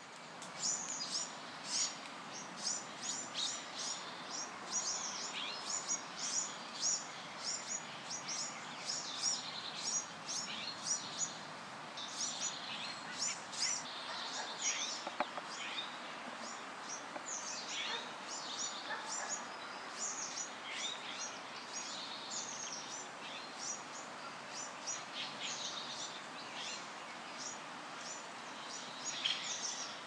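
Songbirds chirping and singing continuously: many quick, high chirps in rapid succession over a steady background hiss of outdoor ambience.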